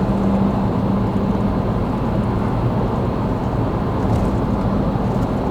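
Motor vehicle driving, a steady low engine-and-road drone with a constant hum.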